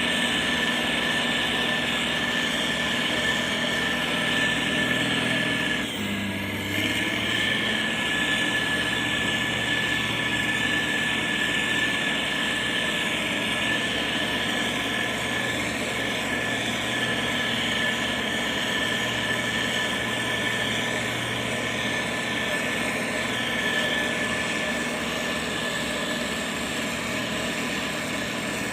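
Diesel engine of a heavy road-building machine running steadily under a steady high whine, with a brief change in the engine note about six seconds in.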